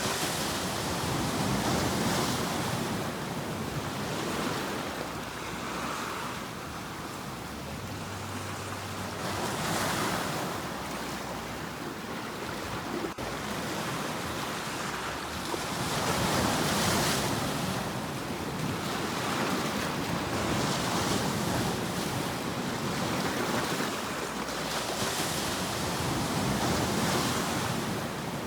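Ocean waves breaking and washing up on a shore, the surf swelling and falling back every few seconds.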